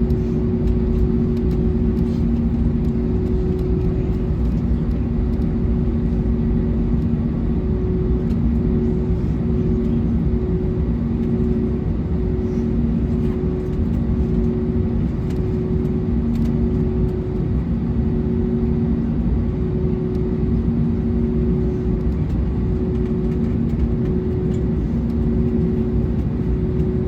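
Steady airliner cabin noise inside an Airbus A321neo: a low rumble with two steady hums that waver gently.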